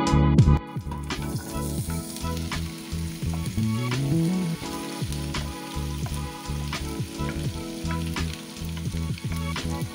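Sliced zucchini dropping into hot olive oil in a frying pan, starting to sizzle steadily about a second in, with a wooden spatula knocking and scraping as it pushes the slices from a glass bowl.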